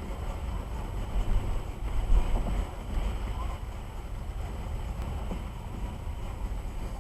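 Road noise inside a moving car's cabin: a steady low rumble of tyres on wet pavement and the engine, with a couple of louder swells in the first two seconds or so.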